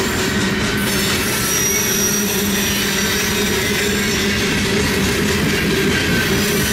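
Freight cars of a long CN train rolling past steadily, with the wheels squealing against the rail.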